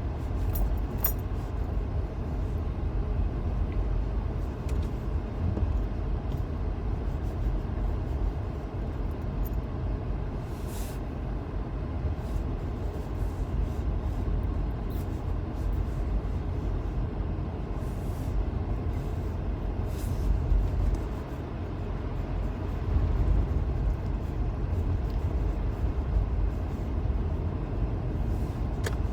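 Steady low rumble of a car driving on snowy roads, heard from inside the cabin: tyre and engine noise, with a few brief faint clicks or knocks.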